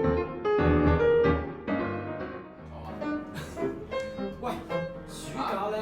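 Classical piano music: loud, heavy low chords struck repeatedly at first, giving way after about two seconds to lighter, quieter figures.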